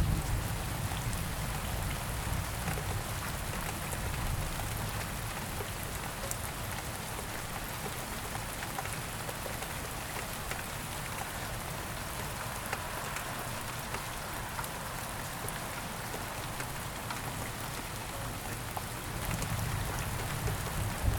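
Steady rain falling, with many fine drop ticks over an even hiss and a low rumble that is stronger at the start and again near the end.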